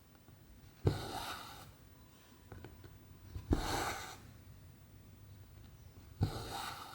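Cross-stitch needle and cotton thread drawn through 14-count canvas: three strokes about 2.7 s apart, each a sharp tick as the needle goes through, followed by a short rasping swish of thread pulled through the fabric.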